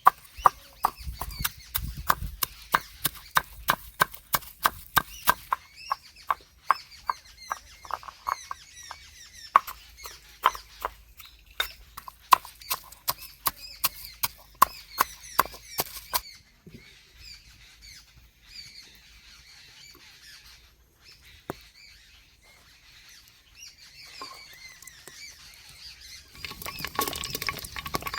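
Steady run of sharp knocks, about two to three a second, that stops about sixteen seconds in, with birds chirping in the background.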